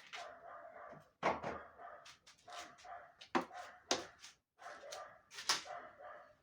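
Dog barking repeatedly, with several sharp, louder barks among quieter ones.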